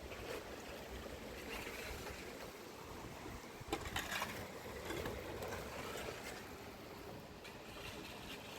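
Steady noise of water, with a few sharp knocks about four seconds in.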